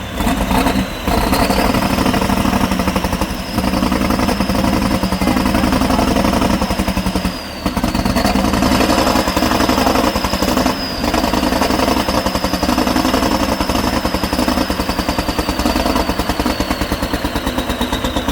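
Heavy off-road trial truck's engine running hard and steady, with a high whine held above it. The sound dips briefly about one, seven and eleven seconds in.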